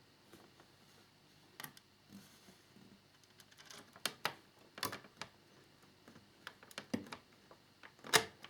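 Scattered small clicks and taps of a screwdriver and tiny screw against the plastic fairing of a scale-model motorcycle as the screw is fitted, a few in quick succession midway and the loudest near the end.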